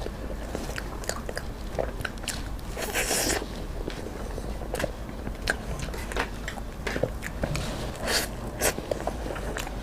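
Close-miked eating: a string of short wet bites and chewing clicks, with a longer noisy burst about three seconds in.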